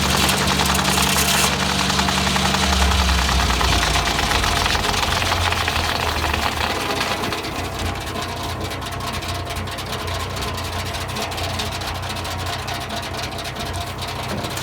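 Engine driving a Foley Belsaw M-14 circle sawmill with a newly fitted 48-inch blade spinning free, not cutting. The engine drops to a lower speed about three seconds in, and the high whir of the blade eases off over the next few seconds.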